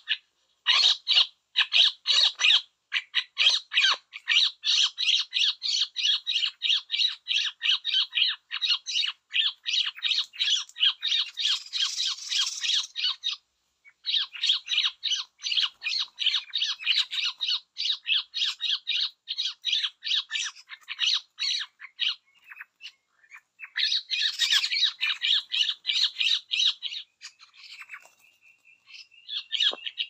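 Rapid, harsh chattering bird calls, many notes a second, running almost without a break, with short pauses about 13 and 22 seconds in. A thin steady whistle sounds near the end.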